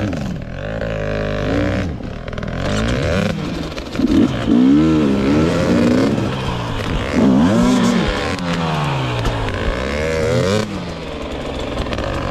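GasGas EX 250 two-stroke dirt bike engine revving up and dropping back again and again in quick bursts, about every second or two, as the bike is ridden through rough trail.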